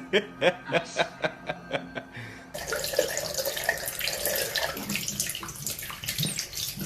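A quick run of short pitched calls, about three a second, then water running and splashing, which starts suddenly about two and a half seconds in.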